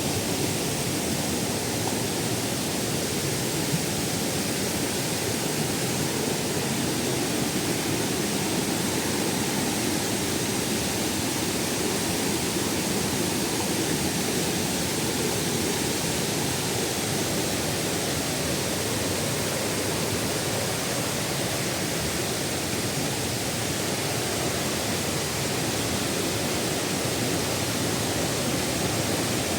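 Waterfall: water falling and churning with a steady, unbroken rush.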